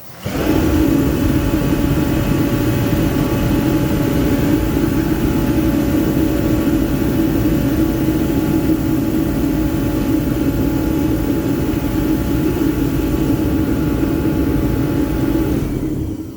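Remington forced-air diesel/kerosene heater starting up and running, its fan and burner going with a loud, steady rush and a few held tones, lighting after being repaired for an E1 no-ignition fault. It shuts off abruptly near the end.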